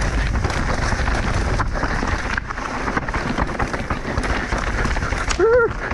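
Mountain bike descending a technical dirt trail, heard from a camera on the rider: continuous tyre rumble, rattling and wind on the microphone. Near the end there is a brief shout.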